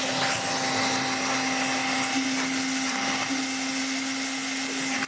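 A 48-volt vacuum cleaner motor running steadily at strong suction: a hum with rushing air, its pitch shifting slightly a couple of times.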